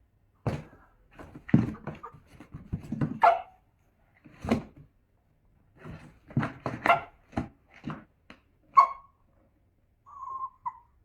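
A dog barking in a series of short, loud barks, with a brief high whine near the end.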